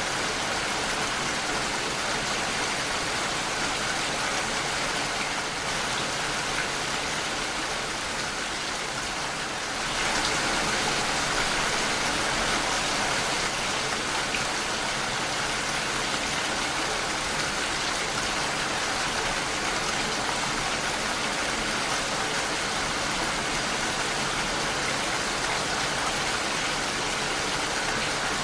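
Steady rain pattering against a window pane, a dense even hiss. The rain grows abruptly louder about a third of the way in.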